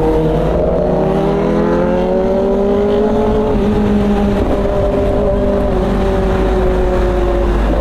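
Motorcycle engine running hard and steady on the move, its pitch climbing a little at first and easing slightly near the end, over a constant low rumble.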